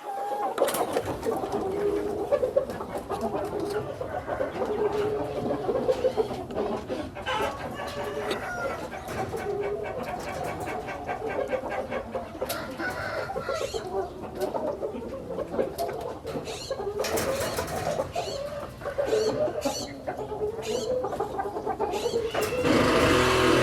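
Chickens clucking and calling, many short calls overlapping, with a rooster crowing among them. A louder steady noise comes in near the end.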